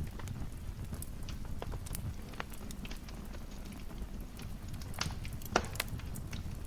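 Wood fire in a fireplace crackling, with scattered sharp pops over a steady low rumble of burning. One pop, about five and a half seconds in, is louder than the rest.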